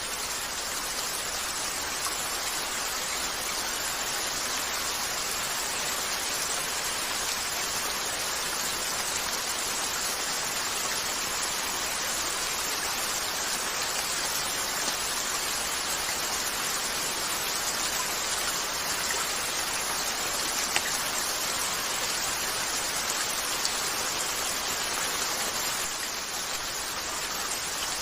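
Steady rain falling, an even hiss with no change in level, with a few faint ticks over it, the clearest about two-thirds of the way through.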